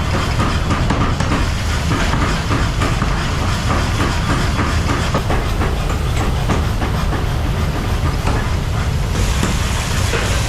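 Workshop machinery running with a loud, steady rattling clatter.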